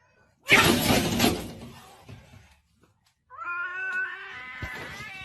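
A loud harsh burst of noise about half a second in that fades away. After a short silence, a cat's long, drawn-out yowl starts past the middle and holds a steady pitch.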